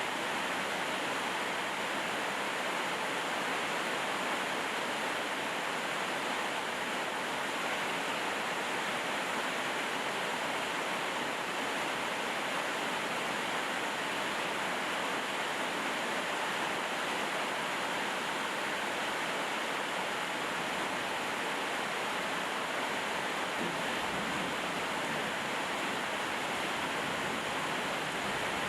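Steady rainfall: an even hiss that holds constant without any separate drops or other sounds standing out.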